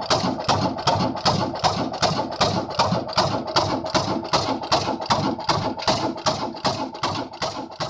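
Old black diesel engine running at a steady slow beat, about four knocks a second, beginning to fade near the end.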